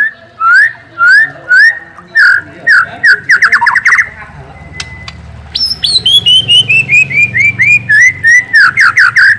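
A songbird singing loud rising whistled notes, about two a second, that speed up into a fast trill around four seconds in. After a short pause comes a long run of clear notes that step down in pitch, about three a second.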